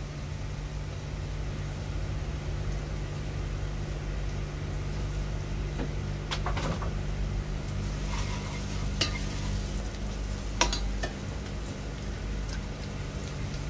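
Onions, ginger, garlic and green chillies sizzling in hot oil in a pan as they are stirred with a spoon, with a few sharp clinks of the spoon against the pan about halfway through.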